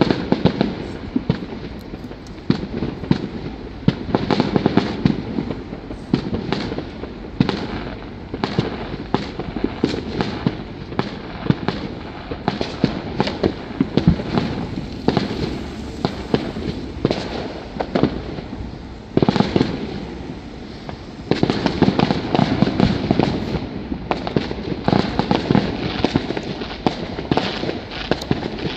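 Fireworks going off in a continuous barrage, with many cracks and bangs in quick succession. There are heavier clusters of rapid crackling bangs a few seconds in and again about three-quarters of the way through.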